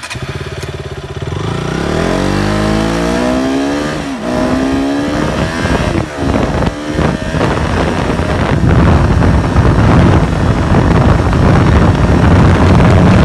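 KTM Duke 200's single-cylinder engine accelerating hard through the gears: the revs climb, drop sharply at an upshift about four seconds in and again around six to seven seconds, then the engine runs loud and steady at speed with rushing noise over it.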